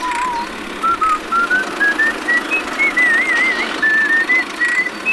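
Background music led by a whistled tune of short notes stepping up and down, with a wavering held note about three seconds in, over a steady backing.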